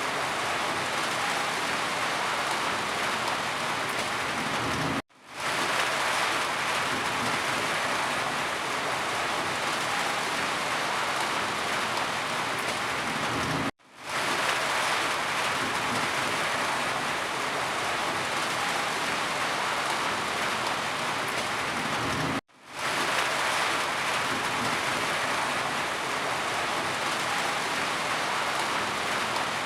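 Rain falling steadily as a dense, even hiss. It cuts out to silence briefly three times, about every nine seconds, and fades back in each time.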